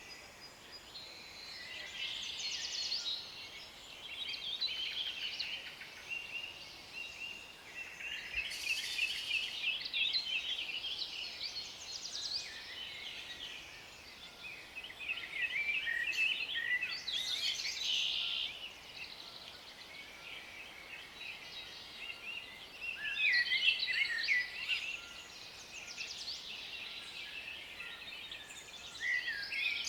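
Several birds singing, a woodland chorus of rapid chirps and trills that swells and fades in bursts every few seconds.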